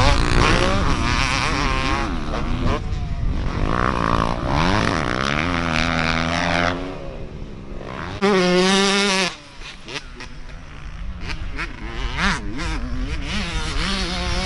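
Dirt bike engines on a motocross track, revving up and down as the bikes ride. About eight seconds in one bike is loud and close for about a second, then the sound breaks off suddenly to a fainter engine drone.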